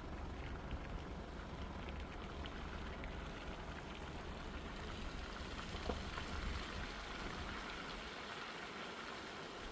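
Steady rain falling, a continuous even hiss with a low rumble underneath and a few faint ticks.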